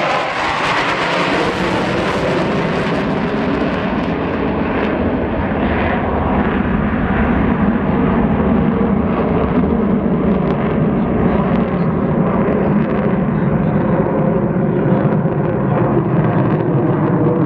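Jet aircraft of an aerobatic display team flying past, a continuous loud jet noise. It is hissier for the first few seconds, then settles into a deeper, steady rumble.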